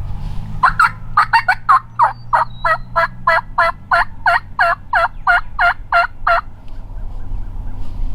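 A long series of turkey yelps, about twenty notes: a quick cluster at first, then an even run of about three a second, ending about six seconds in.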